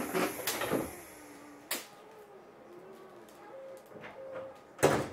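Several sharp clunks and knocks inside the cabin of an Eidan 6000 series subway car while it stands still, the loudest near the end, with no running or inverter noise.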